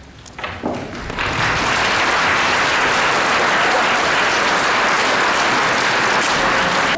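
Audience applauding: a few scattered claps that swell within the first second into steady, full applause.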